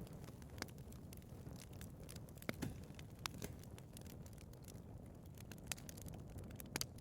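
Wood fire burning in a fireplace, with a low steady rumble and irregular sharp crackles and pops, the loudest about two and a half seconds in and again near the end.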